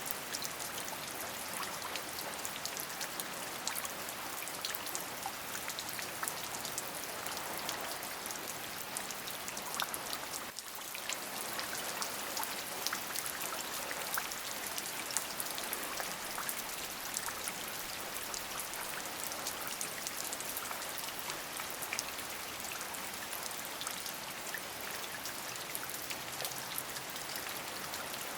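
Steady rain: a dense patter of individual drops over an even hiss, dipping briefly about ten seconds in.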